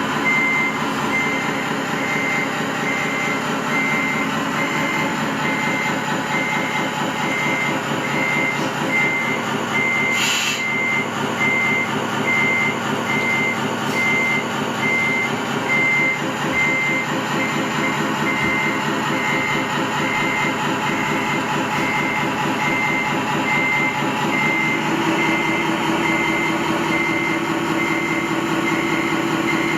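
A reversing alarm on an RC construction truck beeping steadily at an even pace, over the continuous running sound of the truck. There is a single sharp click about ten seconds in.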